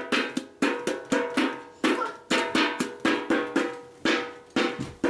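A small drum beaten by hand in a quick, even rhythm, about three or four strikes a second, each strike ringing briefly with a clear pitch.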